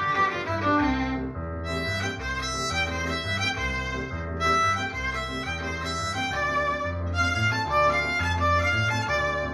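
Violin playing a melody over a low accompaniment.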